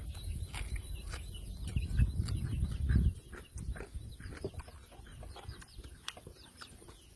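Close-up chewing and eating sounds from a man eating raw fish with papaya salad: many small wet mouth clicks and smacks. A low rumble in the first three seconds then dies down.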